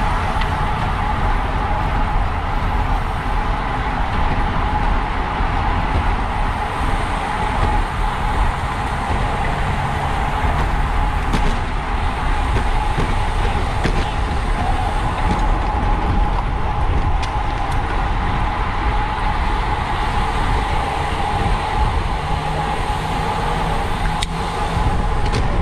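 Rush of wind over the microphone and road noise from a bicycle racing at speed: a steady low buffeting with a constant hum from tyres and drivetrain, and a few faint clicks.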